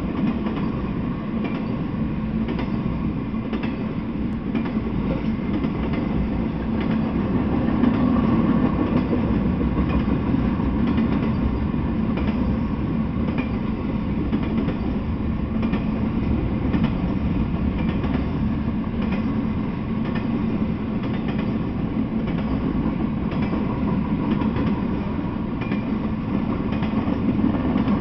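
Intermodal freight train rolling past, its flatcars carrying semi-trailers. The wheels make a steady rumble on the rails, with scattered clicks.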